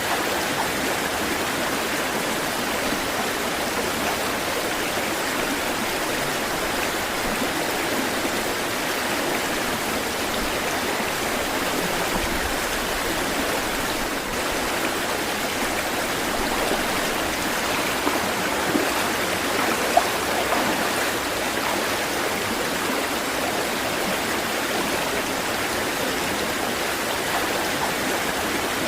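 Running water flowing steadily, with a few brief splashes about two-thirds of the way through.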